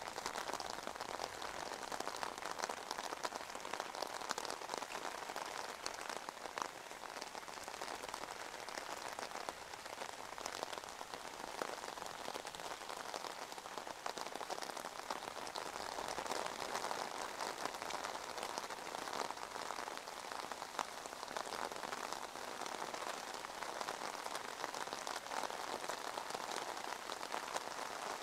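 Steady rain falling on an umbrella overhead and on wet pavement: an even hiss of rain with many small drop taps throughout.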